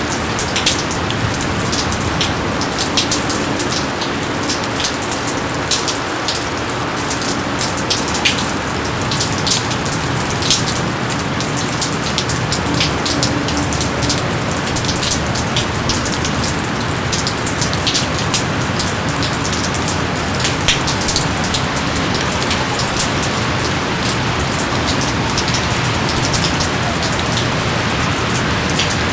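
Steady rain falling, a constant hiss broken by many single drops striking close by as sharp ticks.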